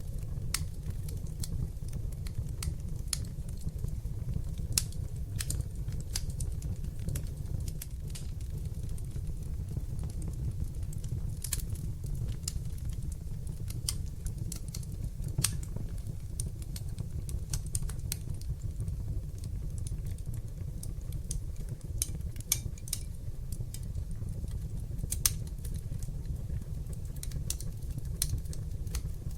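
Wood fire burning in a fireplace: a steady low rumble of flames under irregular, sharp crackles and pops.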